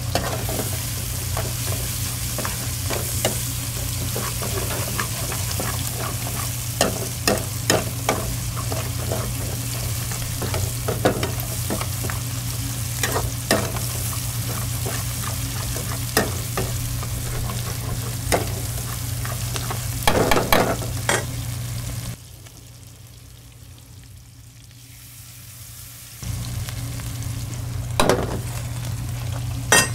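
Lobster stir-frying in a pan, sizzling over a steady low hum, with sharp knocks of a cooking utensil against the pan every few seconds. The sizzle drops away for about four seconds near the end, then comes back.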